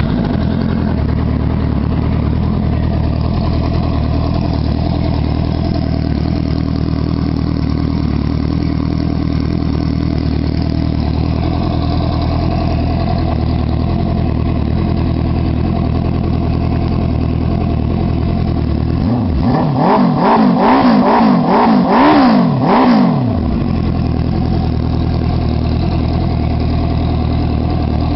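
Engine of a custom turbo bike idling steadily, then revved in a quick run of about five throttle blips about two-thirds of the way through, before settling back to idle.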